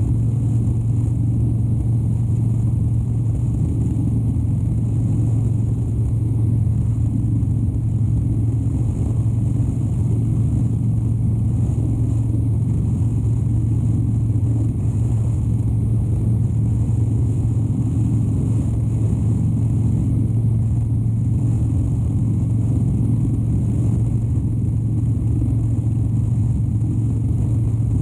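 Harley-Davidson Dyna Wide Glide's 103-cubic-inch air-cooled V-twin running at a steady cruising speed: an even, deep drone that holds the same pitch throughout, with steady road noise.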